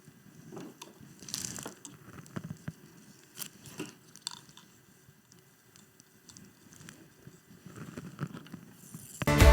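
A homemade rubber-band roller toy of plastic rollers and straws, released after winding, running across a table or paper track with light, irregular clicks and rustles that thin out after a few seconds. Music comes in near the end.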